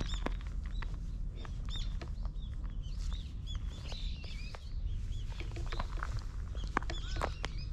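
Small birds chirping: many short, high calls repeated in quick runs over a steady low rumble.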